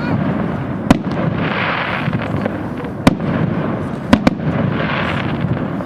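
New Year's Eve fireworks going off all around: a continuous crackling rumble of many distant explosions, broken by four sharp loud bangs (about a second in, near 3 s, and two in quick succession just after 4 s), with two swells of hissing crackle.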